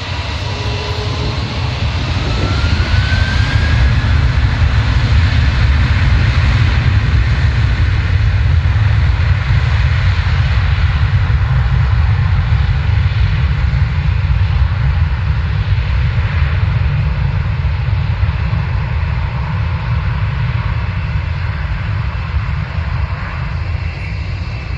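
Airliner engines running loud as a plane passes, with a deep steady rumble. A whine rises in pitch in the first few seconds as the sound swells.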